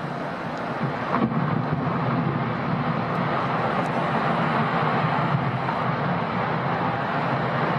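A steady rushing noise with wind buffeting the microphone.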